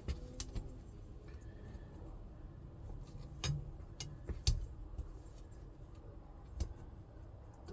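Scattered light clicks and knocks of a shifter boot and its plate being handled and tried against the car's floor, the loudest knock about four and a half seconds in.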